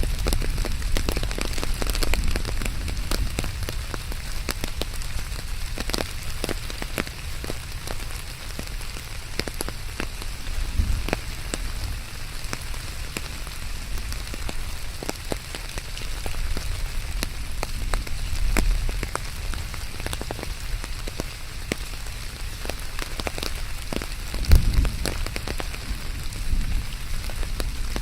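Steady rain falling, with many irregular drop ticks and splatters on a surface. A few low thuds come at intervals, the loudest near the end.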